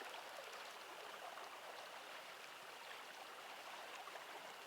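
Mountain stream flowing: a soft, steady rush of moving water.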